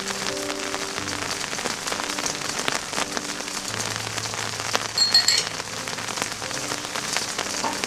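Rain pattering steadily on a surface, with a short ringing clink about five seconds in.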